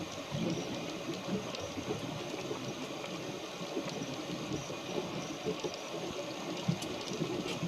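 Steady rushing and sloshing of water with faint ticks, typical of water moving past a small sailboat's hull or rain falling on and around it.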